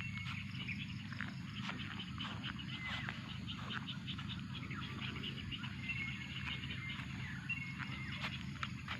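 Wild birds chirping and whistling, many short calls, over a steady low background rumble.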